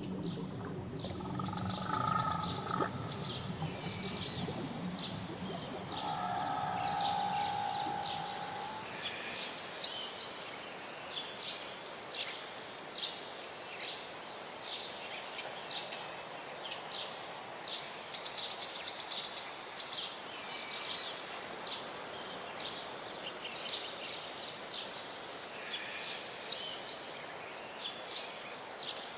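Tropical birds chirping and calling, many short chirps over a steady hiss, with a fast trill about eighteen seconds in. A few long held tones sound in the first several seconds.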